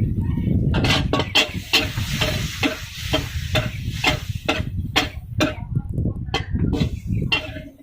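Metal spatula striking and scraping a wok about three times a second while food is stir-fried and sizzles, over a steady low rumble.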